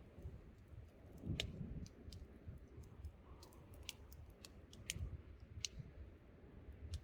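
Wood campfire crackling: sharp, irregular pops and snaps of burning wood, the loudest about a second and a half in, over a low rumble of wind.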